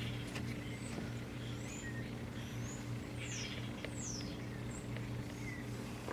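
A few faint, short, high bird chirps, some rising and some falling, over a steady low hum.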